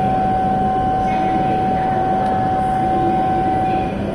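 E7/W7-series Hokuriku Shinkansen train at the platform: a steady rushing noise with a held high tone that cuts off near the end.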